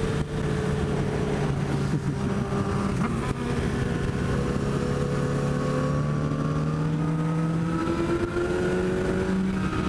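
Honda CBR1000RR Fireblade's inline-four engine heard onboard while riding, with wind noise. The engine note holds steady, then climbs gradually through the second half as the bike speeds up.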